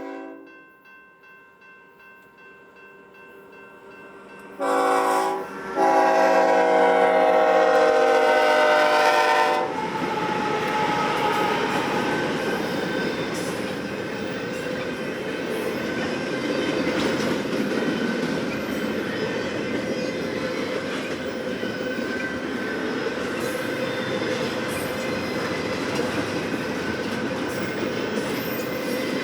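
BNSF freight locomotive's horn sounding a short blast and then a long blast, followed by the train passing close by with a steady rumble and rattle of wheels on rail.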